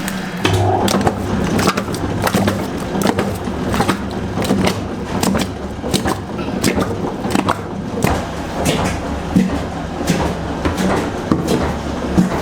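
A machine running with a steady low hum, under many sharp, irregular clacks and knocks.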